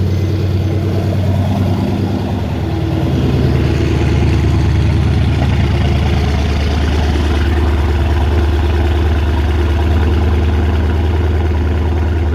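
Freshly rebuilt V8 of a 2012 Mercedes E63 idling steadily just after start-up, its note shifting slightly about three seconds in. The sound echoes off a tiled floor, which makes it loud.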